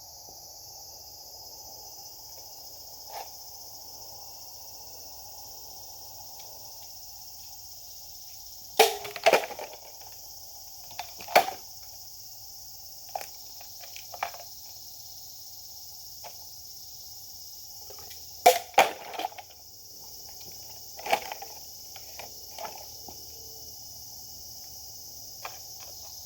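Insects chirring steadily, with a scattered series of sharp knocks and cracks, two loud pairs standing out about a third and two-thirds of the way through.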